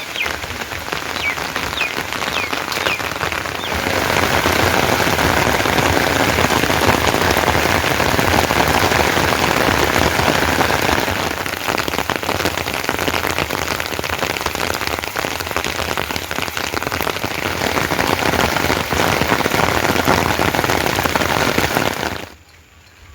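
Steady heavy rain falling, a dense even patter that grows louder about four seconds in and cuts off just before the end.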